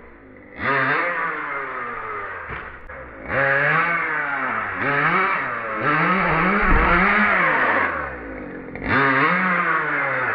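Nitro RC car engine revving up and down in repeated throttle bursts, its pitch rising and falling, with short drops in between.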